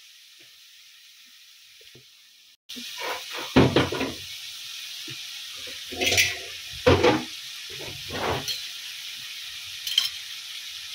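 Coconut oil sizzling steadily in a kadai under diced carrot and shallots. From about three seconds in, several louder clatters of kitchen handling sound over the sizzle.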